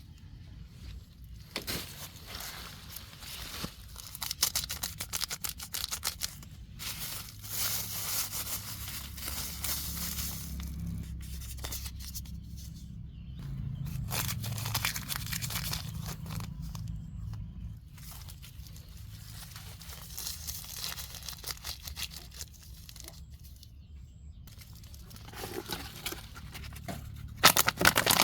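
Plastic bags and wrappers crinkling and rustling as they are handled, in stretches broken by short pauses, getting louder near the end.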